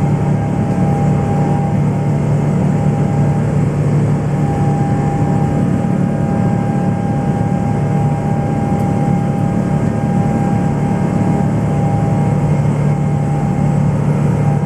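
Boeing 777-300ER jet engines heard from inside the passenger cabin: a steady low drone with a steady whine on top, unchanging throughout.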